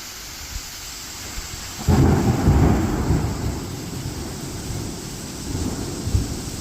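Steady rain falling, with a clap of thunder breaking in about two seconds in and rumbling on, slowly fading, through the rest.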